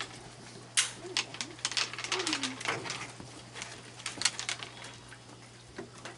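Raccoons feeding at close range: a scatter of sharp clicks and crunches, with a few short, soft coo-like calls that glide down in pitch.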